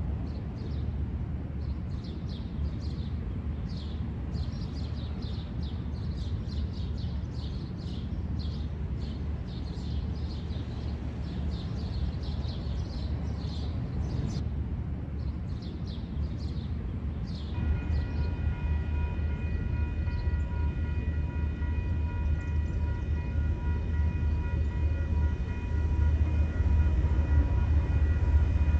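A diesel commuter train approaching, heard as a low rumble that grows louder toward the end. About two-thirds of the way in, a steady whining tone with several overtones sets in and holds. Rapid high chirping runs over the first half.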